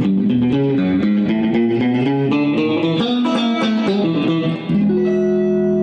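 Electric guitar music: a quick run of single notes and chords, ending on a held chord about five seconds in.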